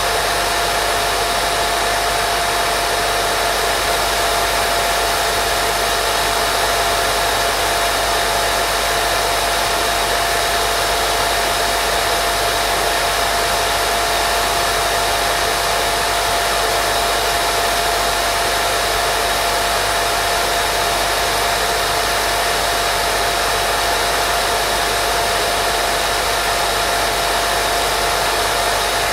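Continuous white noise for baby sleep: an even rushing hiss with a faint steady hum-like tone running through it, unchanging throughout.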